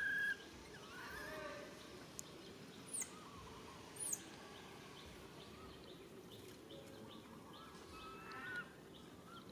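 Baby monkey calling for its mother: a loud short call at the start, softer wavering calls about a second in and again near the end, and two brief very high chirps in the middle.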